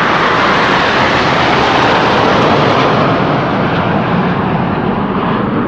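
Eurofighter Typhoon jets of a formation flypast passing overhead: a loud, steady jet roar whose pitch slides down a little in the first second as they go by.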